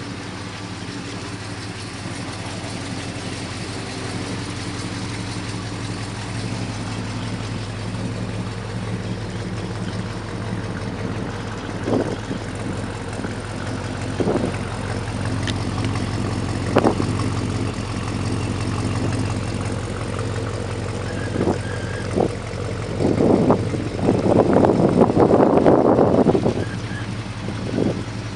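1968 Chevelle SS 396's big-block V8 idling steadily. From about halfway through there are several short throttle blips, then a longer rev of about three seconds near the end.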